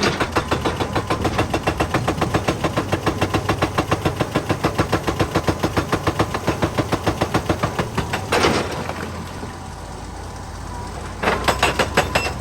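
Excavator's hydraulic rock breaker hammering in a fast, even rhythm of about seven blows a second over a steady diesel engine. The blows stop about eight seconds in while the engine runs on, then start again about three seconds later.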